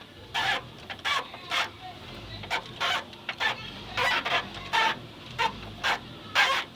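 A chicken clucking: a string of short calls, irregularly spaced at about two a second.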